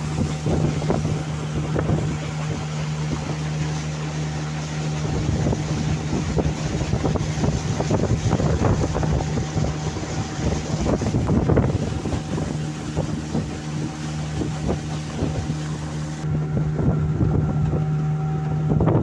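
A steady engine drone with a constant pitch, under rough wind noise buffeting the microphone.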